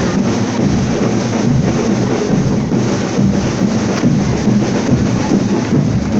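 Marching fanfare band playing, its drums heavy and dominant in a dense, loud wash of sound.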